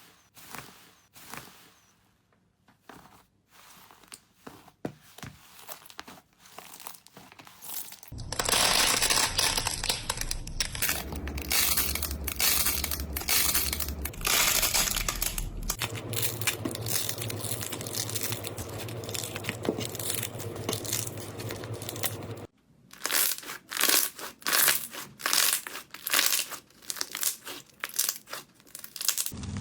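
Slime being handled close to the microphone, making crackling, crinkling sounds. The crackles are sparse at first, turn into a dense continuous crackle about eight seconds in, and near the end come as separate short presses.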